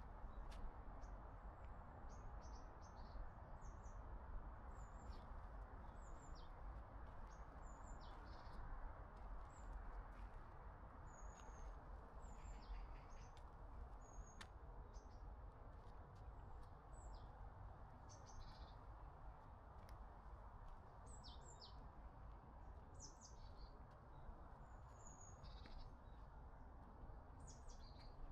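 Faint birdsong: many short, high chirps from small songbirds scattered through, over a steady low background hiss.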